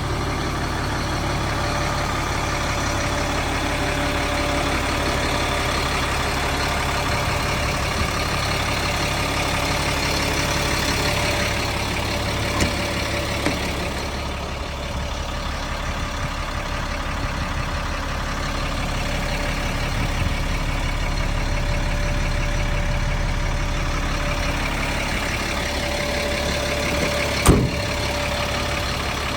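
Caterpillar 3126 inline-six diesel of an M1085A1 military cargo truck idling steadily, with a sharp click near the end.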